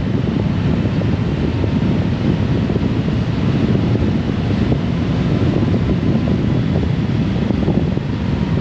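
Steady wind buffeting the microphone of a Honda Gold Wing motorcycle at riding speed, over the low rush of engine and road noise.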